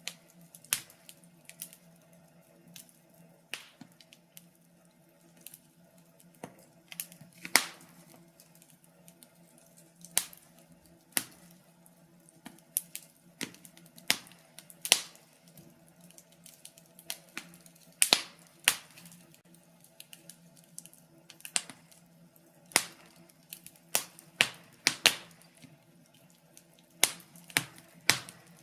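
Wood fire crackling in a fireplace: irregular sharp pops and snaps, scattered unevenly, over a faint low steady hum.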